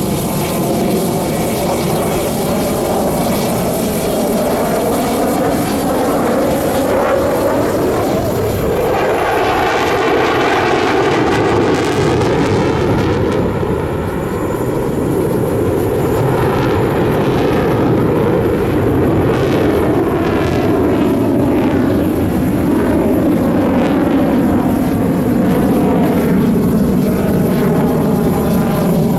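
Twin-engine Sukhoi fighter jets flying a formation display, their jet engines giving a loud, continuous roar that sweeps up and down in tone as the jets pass over.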